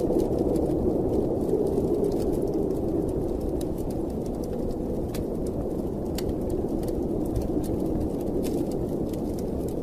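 Wood fire crackling in a fireplace, scattered sharp pops over a steady low howl of blizzard wind.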